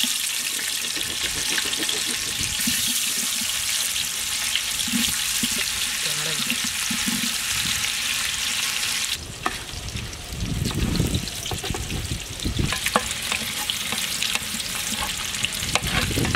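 Paneer cubes sizzling loudly as they fry in hot butter in a large metal pot. The sizzle drops a little about nine seconds in, after which a utensil stirs them with scattered clicks and scrapes against the pot.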